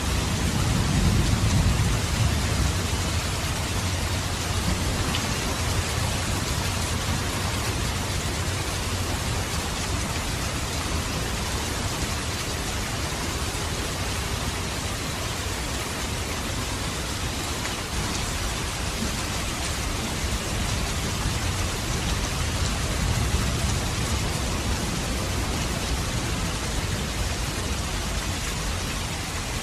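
Steady heavy rain pouring on surfaces, an even unbroken hiss. A low rumble of thunder swells in the first few seconds and again about three-quarters of the way through.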